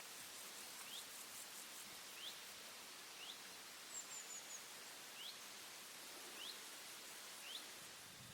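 Faint pondside ambience: a bird repeats a short rising chirp roughly once a second over a steady high hiss, with a brief run of four very high notes about halfway through.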